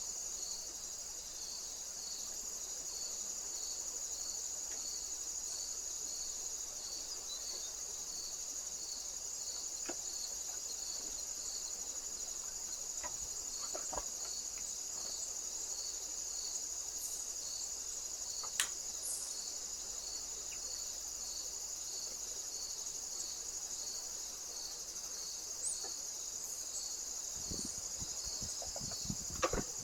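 Crickets chirping: a steady high-pitched trill with a regular pulsed chirp about one and a half times a second. A few faint clicks, and a run of light taps near the end.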